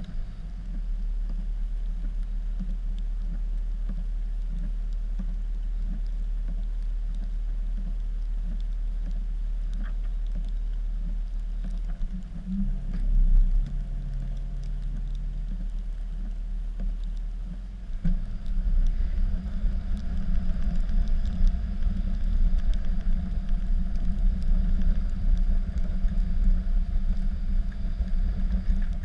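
Dodge pickup's Cummins straight-six turbo-diesel running while plowing snow, a steady low rumble that swells briefly about twelve seconds in and turns louder and rougher about eighteen seconds in.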